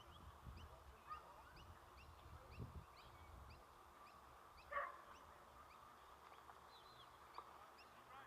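Faint outdoor ambience: a bird chirps over and over in short rising notes, about two to three a second. One louder, harsher call comes about five seconds in. Low wind rumble fades after the first few seconds.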